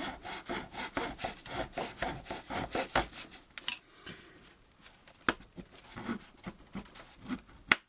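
Small hand saw cutting through 1/8-inch styrene plastic square tubing with quick back-and-forth strokes, about four a second for the first three seconds. After that come slower, scattered strokes and a few sharp clicks.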